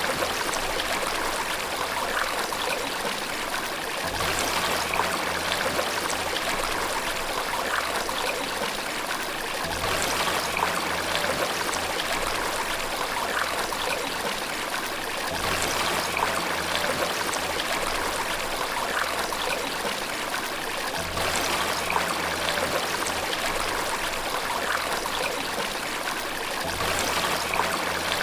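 Running water flowing steadily, like a stream or waterfall. A faint low rumble swells and fades about every five and a half seconds.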